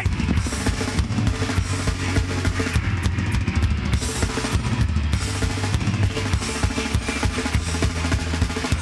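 Live metal band playing an instrumental passage, with the drum kit loudest: fast, dense kick-drum and snare hits over sustained low notes.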